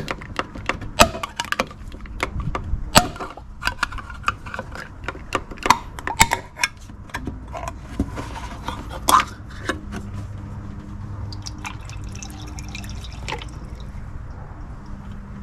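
A can of MOA engine oil treatment being poured through a funnel into the engine's oil filler. Sharp clicks and knocks come through roughly the first nine seconds, then the liquid runs in more steadily.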